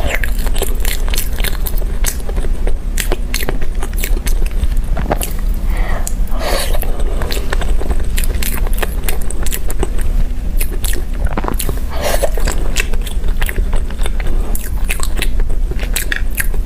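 Close-miked biting and chewing of soft, chili-seasoned potato cubes from a skewer, full of quick wet mouth clicks and smacks, over a steady low hum.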